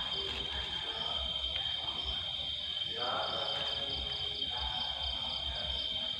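Insects chirring steadily, a continuous high-pitched buzz, with a brief rustle about three seconds in.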